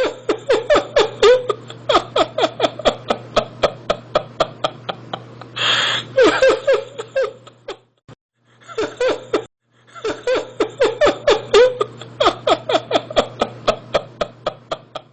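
A person laughing hard in long runs of quick 'ha' pulses, about four a second, each falling in pitch. A wheezing in-breath comes about six seconds in, and the laughter breaks off briefly twice before starting up again.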